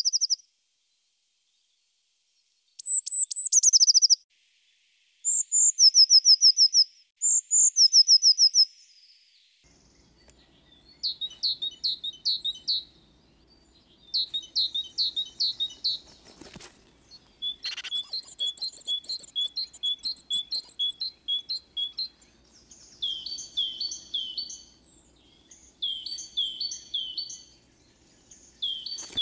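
Eurasian blue tit song, high trilling phrases that slide down in pitch, repeated four times. About ten seconds in it gives way to great tit song: phrases of repeated notes, then the two-note 'tea-cher' phrase repeated in quick bursts.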